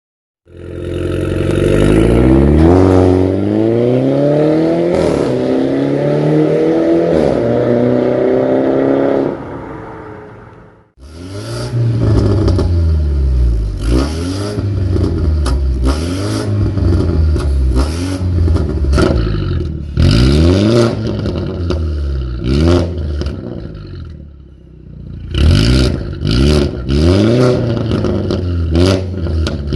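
BMW F30 320i's turbocharged four-cylinder engine revved through an aftermarket stainless full valved exhaust: one long rev climbing for several seconds and dropping away, then a string of quick throttle blips about once a second, sharper and louder near the end.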